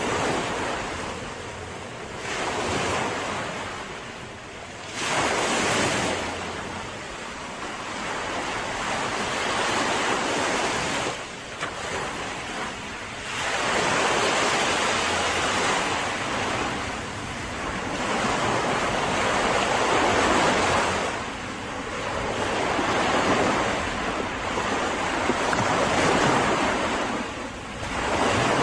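Mediterranean sea waves breaking and washing on a beach, swelling and ebbing every few seconds, with some wind on the microphone.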